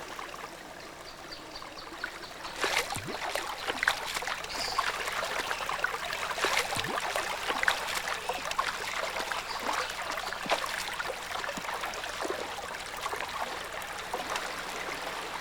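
Running water trickling and gurgling, full of small drips and plinks, getting louder about two and a half seconds in.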